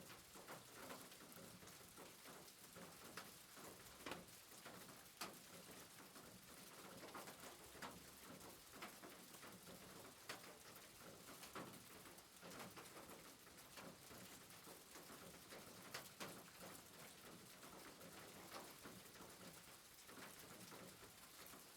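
Faint soft rain: a steady hiss with scattered drips ticking at irregular intervals.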